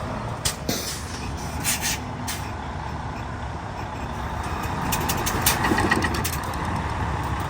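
Heavy truck engine running with a steady low rumble that swells a little in the second half, with several short sharp clicks and hisses over it.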